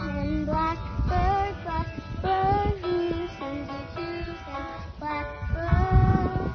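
Music: a child's singing voice carrying a melody of held notes over a plucked-string accompaniment.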